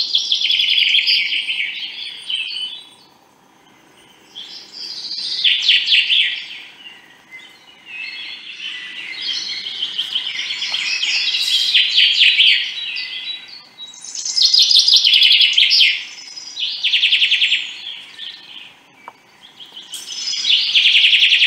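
Songbird singing: repeated phrases of rapid, trilling chirps, each a few seconds long, broken by short pauses.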